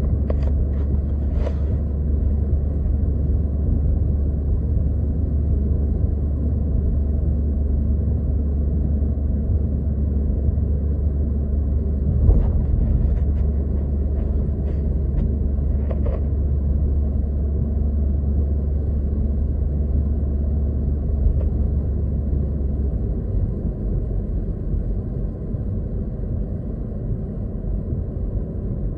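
Steady low rumble of a car driving, heard inside the cabin, with a few faint ticks. The deepest part of the rumble drops away about three-quarters of the way through.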